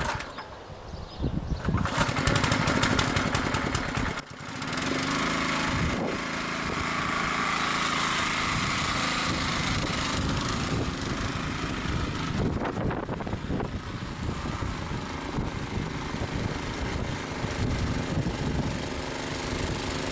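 Small petrol engine of a walk-behind tractor running steadily. It is weaker for about the first two seconds, with wind noise, and drops out briefly at about four seconds.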